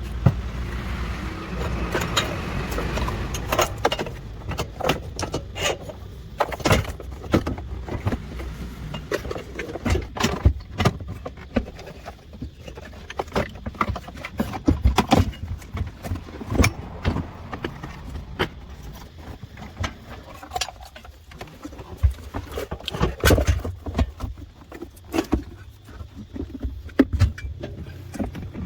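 Irregular metallic clinks and knocks of hand tools and parts being handled during car repair work, over a low background rumble.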